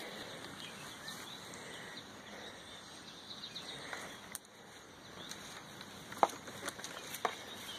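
Quiet outdoor background with faint bird chirps, then a few sharp knocks in the last two seconds, the loudest about six seconds in.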